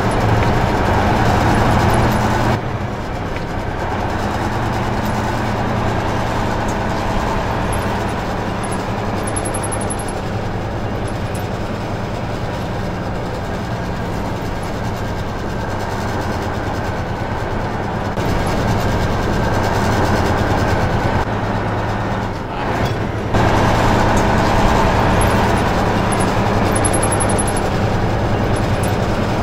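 Conventional Freightliner truck's diesel engine running under way, with steady engine hum and road noise. The sound drops about two and a half seconds in, and near the end it dips briefly before coming back louder.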